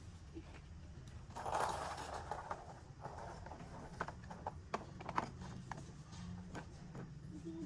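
Plastic toy construction vehicles clicking and knocking as they are handled, with a brief scraping rattle about one and a half seconds in, over a steady low hum.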